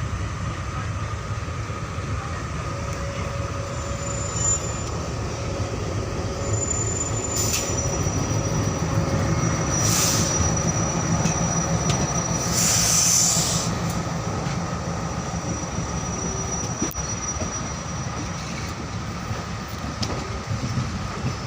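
A train moving along the track with a steady rumble of wheels on rails. A thin, high wheel squeal runs through the middle, and a few short hissing bursts stand out about a third and about halfway in.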